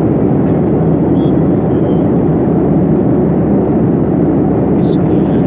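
Passenger airliner's jet noise: a steady, loud, low rushing roar that holds level without rising or falling.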